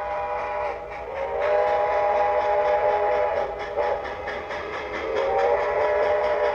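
Locomotive whistle sounding a chord of several notes at once, swelling into two long blasts, the second starting about five seconds in, over a low steady rumble.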